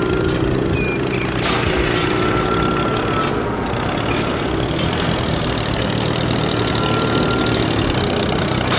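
An engine running steadily, with a thin high whine that comes and goes about every two and a half seconds.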